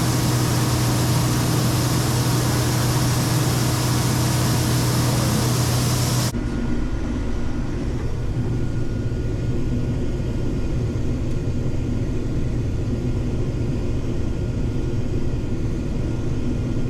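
Heavy farm harvest machinery running steadily: a constant engine drone under a loud rushing hiss. About six seconds in the sound changes abruptly to a duller, lower machine rumble.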